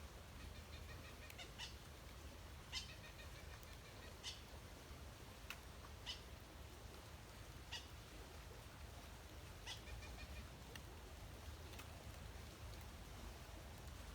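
Faint woodland birds calling: scattered short, high chirps every second or two, with a few quick runs of repeated notes, over a low steady rumble.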